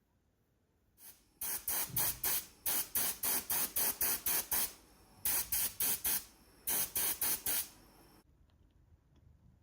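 Short hissing bursts of pressurized spray, about three a second, in three runs with brief pauses between them, stopping near the end.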